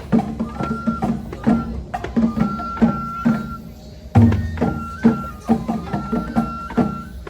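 Japanese festival folk music (hayashi): drums struck in a quick, busy rhythm under a high flute playing held notes that step up and down, with a heavy low drum stroke about four seconds in.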